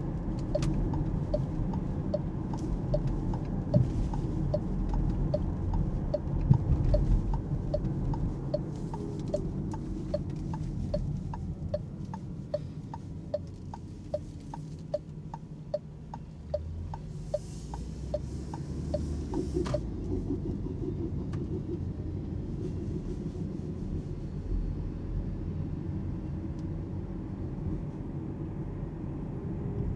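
Alpine A390 electric car's in-cabin road and tyre rumble with the turn-signal indicator ticking evenly, about one and a half ticks a second. The ticking stops about two-thirds of the way in with a slightly sharper click, and the road rumble carries on.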